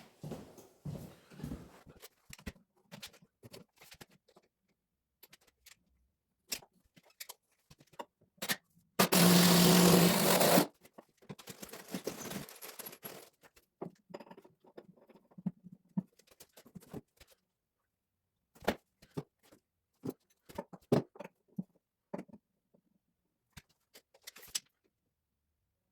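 Scattered clicks, taps and scrapes of tools and pipe fittings being handled. About nine seconds in comes a loud, buzzing burst lasting under two seconds.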